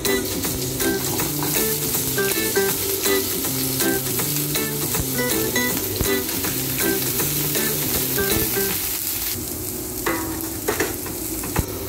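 Asparagus and baby corn frying in hot oil in a nonstick pan, a steady sizzle. Background music plays quietly underneath for most of it.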